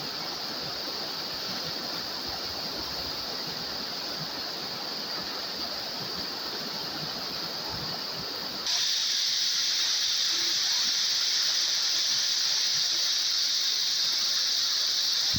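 A tall waterfall's rushing water as a steady hiss. About eight and a half seconds in, it turns abruptly louder and brighter, with less of the low rumble.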